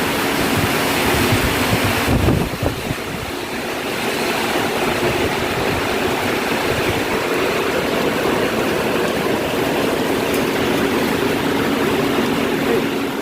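Heavy rain and hail pouring down in strong wind, a steady loud rush, with gusts rumbling on the microphone about two seconds in and a low steady hum underneath.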